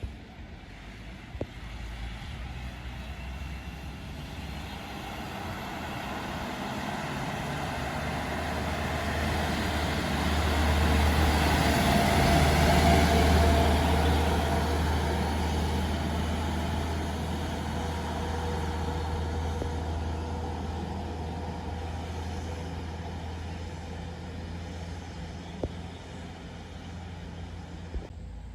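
Heavy loaded truck's engine running with a low, steady note as the truck approaches slowly, passes loudest about halfway through, then fades away.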